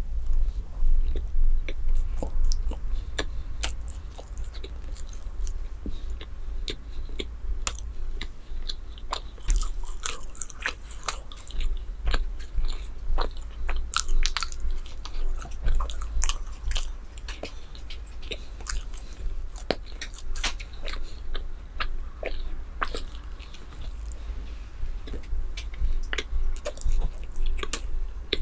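A person biting and chewing a piece of chocolate dessert, with many small, irregular crisp clicks and crackles of the mouth and food throughout.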